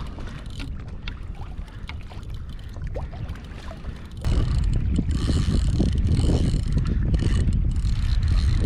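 Wind buffeting the microphone on a kayak at sea, with light ticks and water sounds. About four seconds in, the wind noise jumps suddenly and stays loud.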